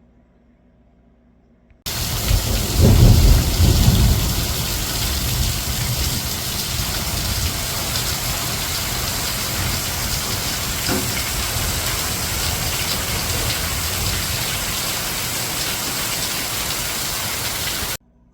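A loud, steady rushing noise with a deep rumble in its first two seconds; it starts suddenly about two seconds in and cuts off suddenly near the end.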